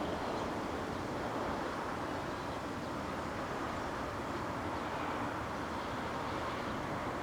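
Train running, a steady rumbling noise without any distinct beats.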